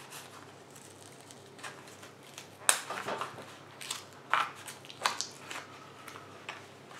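Small handling noises: a scatter of short, sharp clicks and light scrapes as a key fob and its coin-cell batteries are handled, swapping the old battery for a new one. The clicks cluster in the middle seconds.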